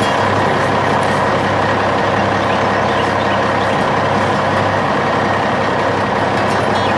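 Heavy dump truck engine rumbling steadily.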